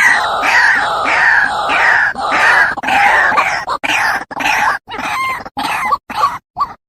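White-breasted waterhen (ruak-ruak) call played as a bird lure: harsh croaking notes repeated in a steady rhythm, breaking up into short choppy fragments with sudden silent gaps in the second half.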